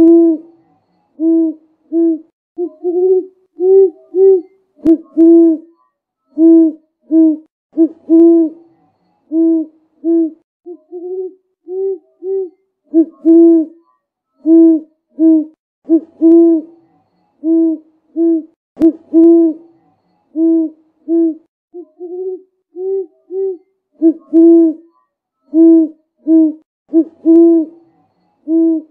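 Low hooting bird calls repeated in a long, steady series of short notes, often in quick pairs, with fainter, slightly higher notes between them.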